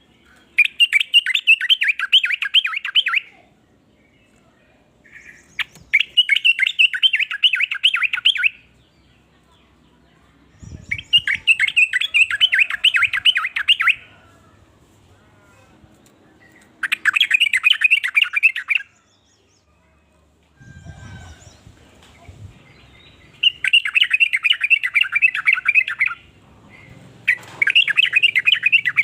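Yellow-vented bulbul (trucukan) singing: six phrases of quick, bubbling notes, each lasting two to three seconds, repeated about every five seconds.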